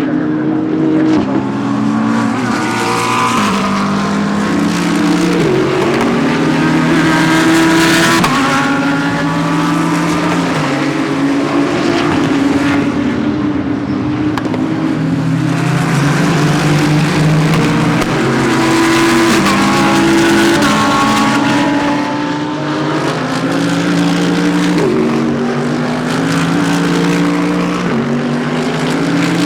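Several GT3 race cars' engines at racing speed, overlapping as a pack goes by. Their pitch climbs and drops in steps as the drivers shift gears, and one car is loudest about eight seconds in.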